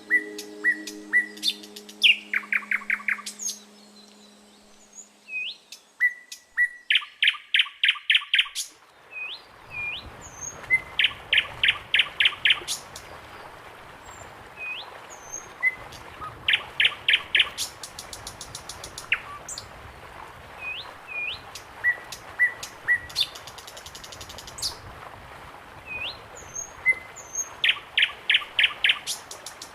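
Birds singing: one repeats a phrase of a few short notes ending in a quick run of five or six notes every few seconds, with short rising calls in between. A low steady hum fades out in the first few seconds.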